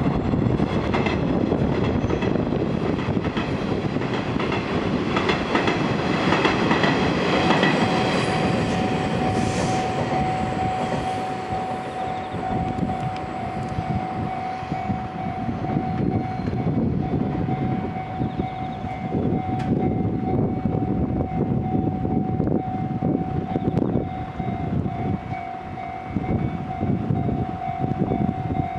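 Electric trains on the line: a Nishitetsu 8000 series limited express runs past, and a 6000 series train approaches near the end. A steady high tone sounds from about eight seconds in.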